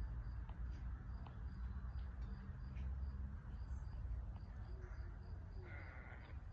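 Outdoor ambience: an insect chirping in short, high, evenly spaced pulses, about three a second, over a steady low rumble.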